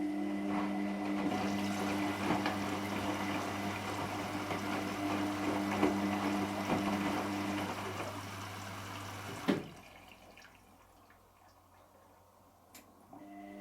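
Hotpoint washing machine with water running through it and a steady electrical hum. Both stop with a click about nine and a half seconds in, leaving it fairly quiet for the last few seconds.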